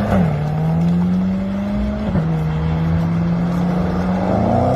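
Car engine accelerating through the gears. Its pitch climbs, then drops sharply at an upshift about a quarter second in and again about two seconds in, and rises again near the end.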